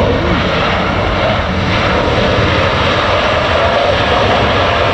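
Jet engines of an arriving Airbus A321neo airliner, loud and steady, with a faint whine that slowly falls in pitch.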